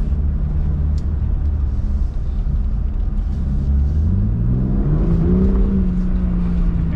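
BMW G80 M3's twin-turbo straight-six heard from inside the cabin, running steadily over road rumble, then rising in pitch for about a second and a half about four seconds in as the revs climb, and holding the higher note.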